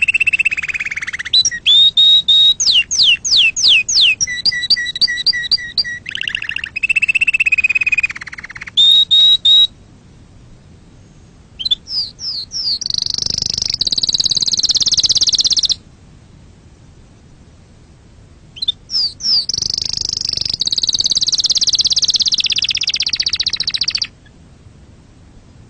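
Domestic canary singing: three long song phrases of fast rolling trills and rapidly repeated notes, with pauses of a few seconds between them.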